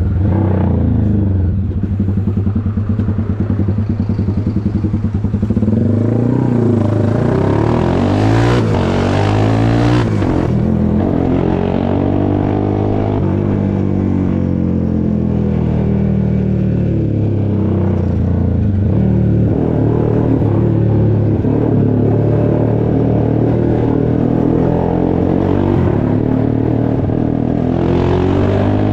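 Honda CBX 250 Twister's single-cylinder engine, bored out to 79 mm and fitted with a tuned exhaust, running with a loud exhaust note. The revs climb and drop several times, with a steep climb that cuts off suddenly about ten seconds in and another climb near the end.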